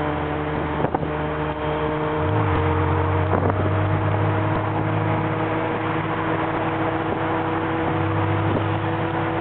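Porsche 993 Carrera's air-cooled flat-six engine running as the car drives along, heard from the open-top cabin with wind noise. Its note steps up slightly about two seconds in, then holds steady.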